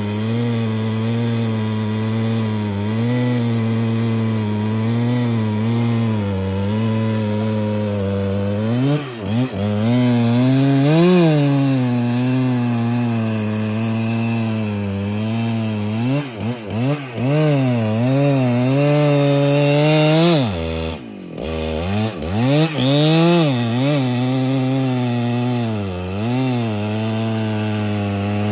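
Husqvarna 395XP two-stroke chainsaw running hard while cutting wood. The engine note holds steady at first, then rises and falls again and again as it loads and frees in the cut. It sags sharply about 21 seconds in before picking back up.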